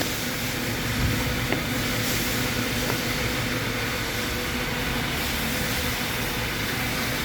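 A steady mechanical drone with a faint even hum, and two light clicks about a second in.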